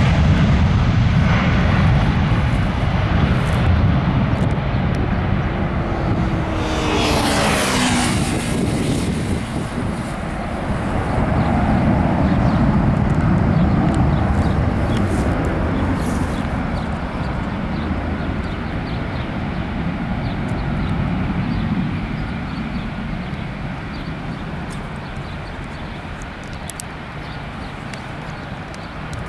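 Jet engines of an Airbus A320-family airliner at takeoff power, passing by. A whine drops sharply in pitch about seven seconds in as the plane goes past, and the heavy rumble then slowly fades as it climbs away.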